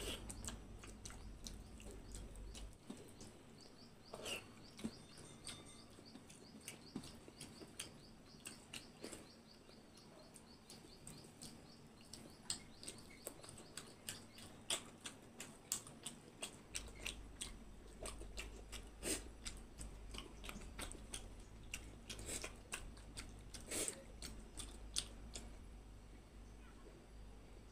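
Close-miked chewing of soft khichdi (rice and lentils) eaten by hand, heard as irregular wet mouth clicks and smacks, several a second at times.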